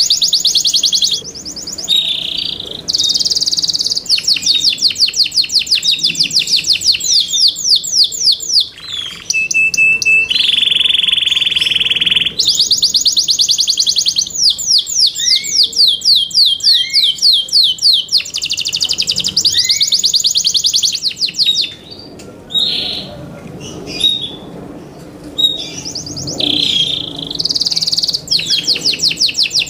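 Yorkshire canary singing: fast trills and rolls of rapidly repeated high notes, with a steady held note about ten seconds in and a quieter, broken-up stretch a little past the middle.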